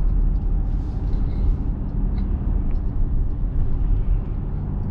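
Steady low rumble of engine and tyre noise inside a small pickup truck's cabin while it drives along a road.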